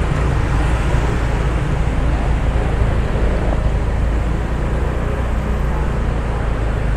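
A car driving along a street, with a steady low rumble of engine and road noise.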